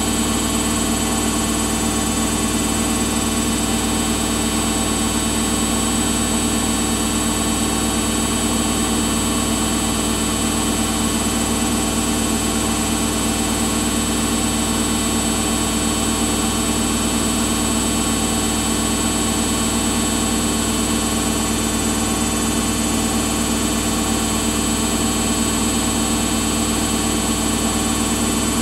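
Samsung washing machine running with a steady, unchanging hum made of several fixed tones over an even whirr.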